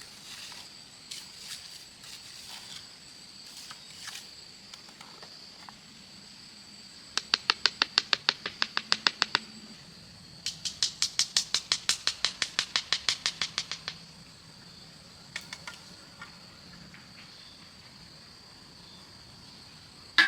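Two runs of rapid, evenly spaced sharp taps, about nine a second, each lasting a few seconds, over a steady high-pitched hum.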